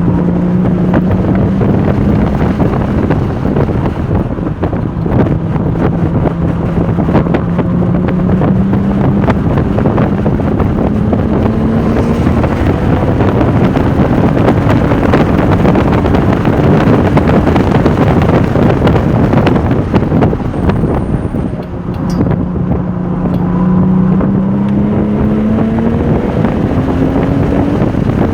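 Porsche 996 Turbo's twin-turbo flat-six under hard acceleration on track, its pitch climbing steadily in long pulls that break and start lower again, with a brief lift near the end. Heavy wind noise on the microphone runs under it.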